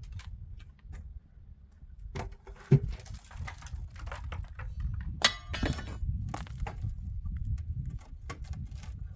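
Scattered knocks and clinks of hard objects being handled, with one loud thump about three seconds in and a burst of clattering about five seconds in, over a steady low rumble.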